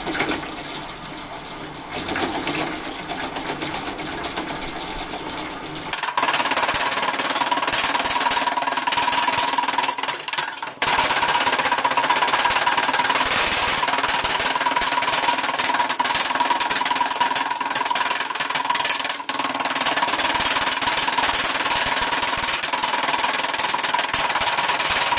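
Wood chipper running, a loud, steady, noisy machine sound with a constant whine. It is quieter at first and jumps much louder about six seconds in.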